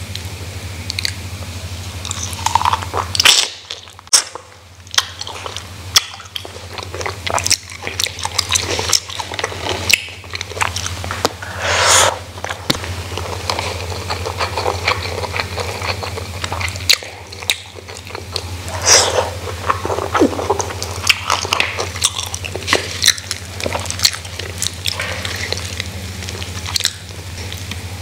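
Close-miked eating by hand: irregular crunchy bites and chewing of a fried bakwan fritter, grilled chicken and rice, with wet mouth clicks.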